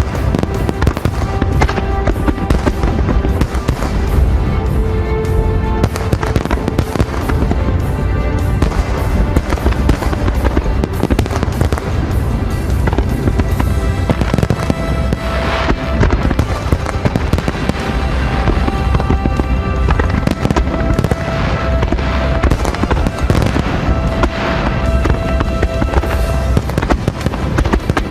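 Aerial fireworks shells bursting in a rapid, unbroken barrage with crackling, under music playing at the same time.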